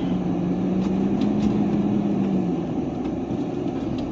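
Truck engine running while driving, heard from inside the cab as a steady low hum; its tone rises slightly and then drops away about two and a half seconds in.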